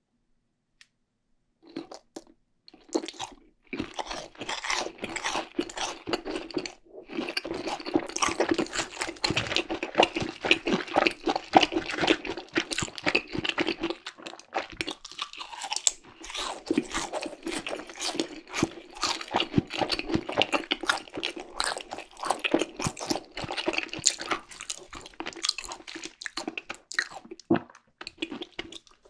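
Close-miked crunching and chewing of a crispy fried cheese ball, a dense run of rapid crackly bites and chews that starts a couple of seconds in and pauses briefly twice.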